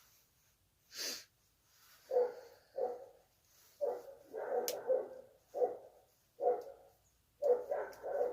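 A dog barking repeatedly, a string of short barks starting about two seconds in, after a brief hiss-like rush about a second in.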